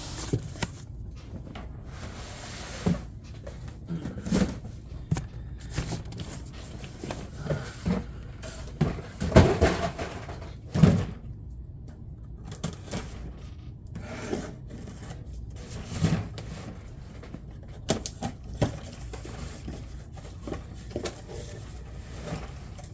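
A cardboard case of Hot Wheels cars being ripped open and handled: irregular knocks, thumps and rustling, loudest about nine to eleven seconds in.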